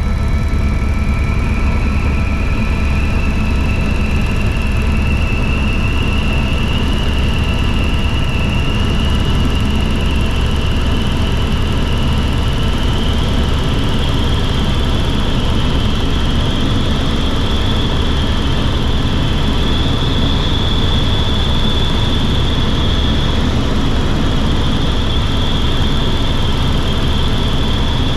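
Helicopter running: a heavy, steady low drone under a high turbine whine that slowly rises in pitch.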